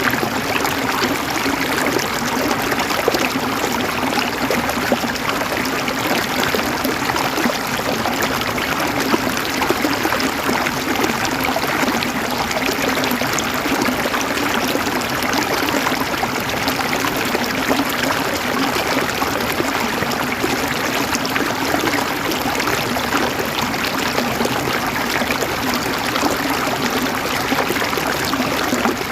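Water flowing in a stream, a steady rushing and trickling.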